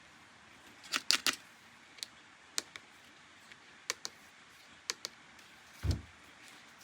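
Sharp clicks and taps from toys being handled, with a quick cluster about a second in, then single clicks spaced a second or so apart, and one low thump near the end.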